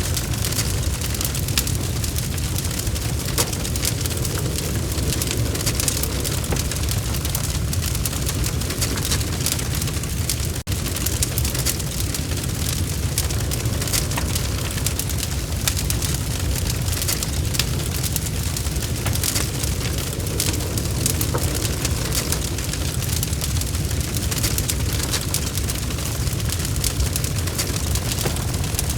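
Wood fire in a fireplace burning steadily, logs crackling with many small sharp pops over a low rumble. The sound drops out for an instant about ten seconds in.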